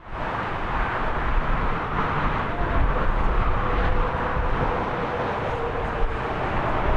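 Jet airliner engines running as the aircraft passes: a steady rumbling roar with a faint held whine above it.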